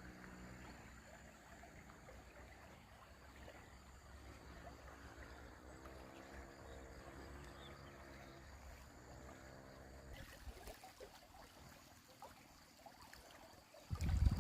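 Faint, steady flow of the Nemțișor river, with weak pitched sounds drifting in now and then. A loud low rumble starts suddenly right at the end.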